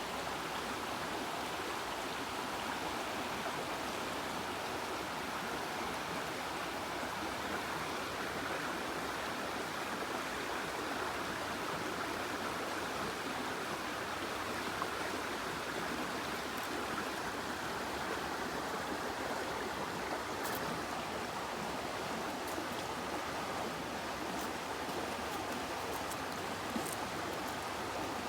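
Water of a stream rushing steadily over rocks, an even, unbroken flow.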